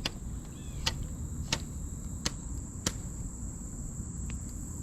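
Steady high-pitched insect trill, with five sharp clicks in the first three seconds, spaced a little over half a second apart.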